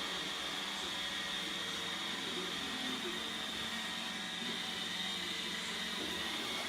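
iRobot Roomba 690 robot vacuum running: a steady motor hum with a thin, constant high whine over it.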